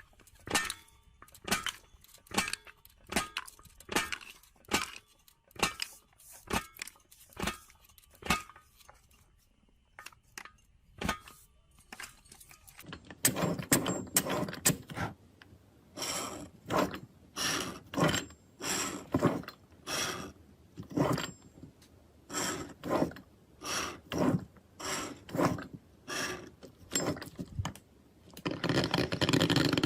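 A steady series of sharp clicks and taps, about two a second, pausing for a couple of seconds around ten seconds in, then a denser run of fuller knocks.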